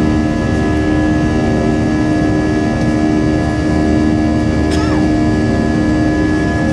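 Boeing 737 jet engines running steadily at high power: a constant rushing noise with several held whining tones. A brief falling tone sounds about five seconds in.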